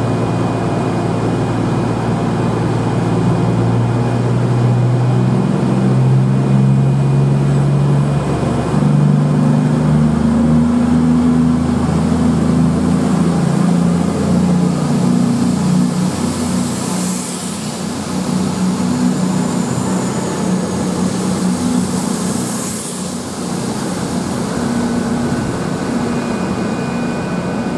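CrossCountry Voyager diesel-electric multiple unit running past along the platform. Its underfloor diesel engines give a stepping, shifting engine note that is loudest in the first half and then fades. Two short high-pitched squeals come near the middle as the coaches go by.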